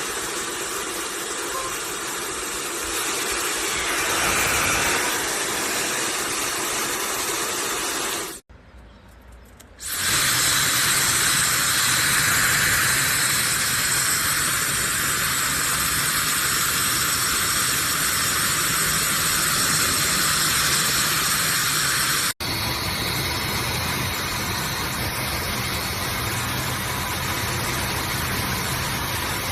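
Laifen SE high-speed hair dryer running: a steady rush of airflow with a motor whine. It drops out for about a second and a half some eight seconds in, then comes back stronger in the upper range.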